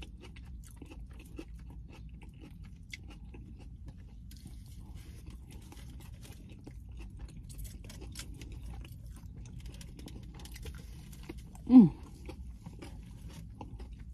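A person chewing and crunching mouthfuls of buffalo chicken Cobb salad (lettuce and breaded chicken), a run of small crisp crunches. Near the end comes one short hum from the eater that falls in pitch.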